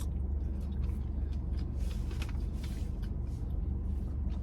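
Steady low hum of a parked car idling with its air conditioning running, heard from inside the cabin, with a few faint small clicks over it.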